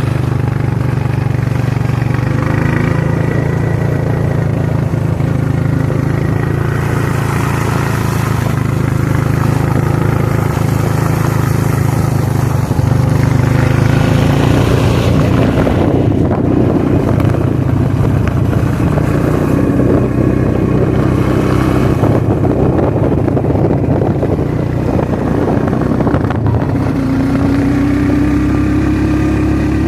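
Suzuki King Quad ATV engine running steadily under way, rising in pitch near the end as it is given more throttle.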